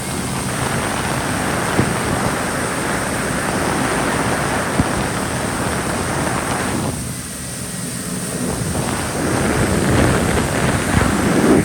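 Wind buffeting the microphone and water rushing past a moving jet ski, as a dense, loud noise. The noise eases briefly about seven seconds in, then builds again.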